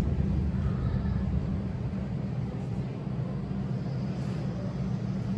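Steady low rumble of indoor background noise, with no distinct events.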